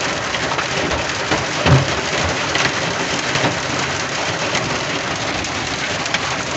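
Hailstones pelting a truck cab's roof and windshield: a dense, steady clatter of countless small impacts, with one heavier knock a little under two seconds in.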